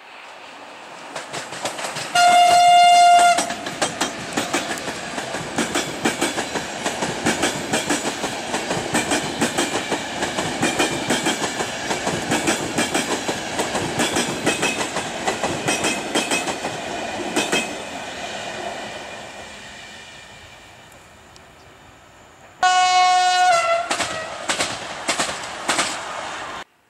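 Passing train: a horn blast about a second long, then wheels clacking over rail joints with a rumble that slowly fades away. A second horn blast comes near the end, dropping in pitch as it ends, followed by more clacking.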